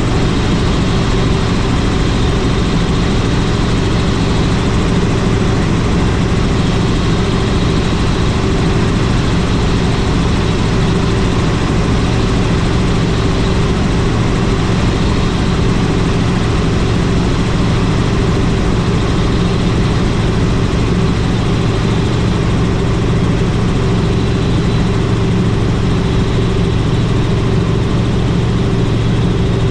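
Helicopter in flight: steady engine and rotor noise with a constant low hum, unchanging throughout.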